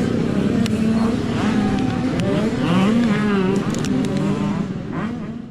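Motocross dirt bike engines running and revving on the track, their pitch rising and falling. The sound fades out near the end.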